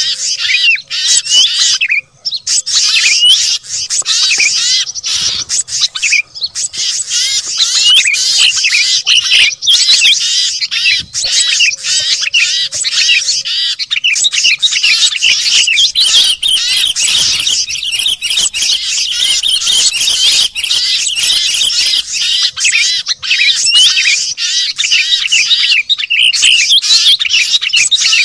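Dense chorus of many small songbirds chirping, twittering and trilling over one another without a break: a mixed bird-call lure recording of noisy birds, used to draw wild birds down.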